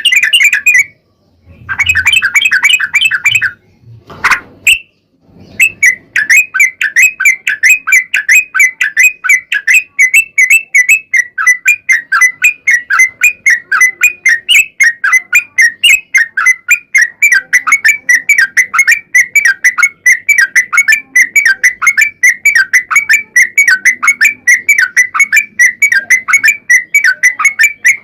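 Yellow-vented bulbul (trucukan) song. A few short bursts come first, then from about five seconds in a long unbroken run of rapid, evenly repeated chattering notes, the 'ropel panjang'.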